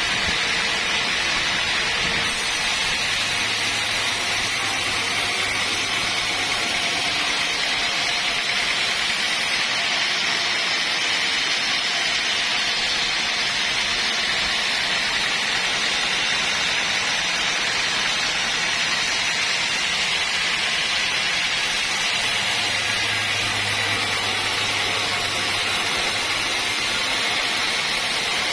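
Sawmill blade cutting through a log: a steady, loud, noisy hiss, with a faint low hum that comes in twice.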